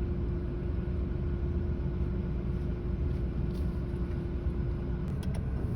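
Steady low rumble of road traffic, with a steady hum that stops about five seconds in and a few faint clicks near the end.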